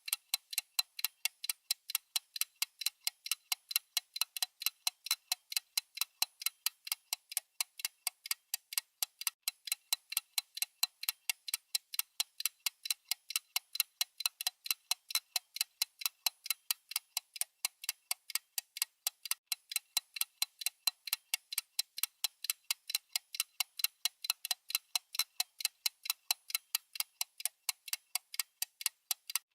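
Clock-style ticking sound effect of a countdown timer: crisp, evenly spaced ticks, several a second, keeping a steady rhythm throughout.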